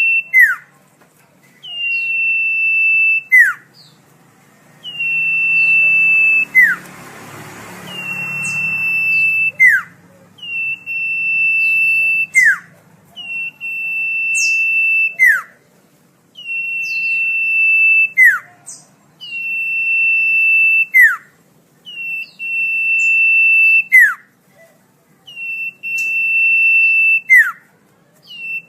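Common iora (cipoh) singing: a long, level, high whistle held for about a second and a half, ending in a sharp downward-swooping note, repeated about every two and a half to three seconds, around ten times. A brief faint rush of noise sits under the song about seven seconds in.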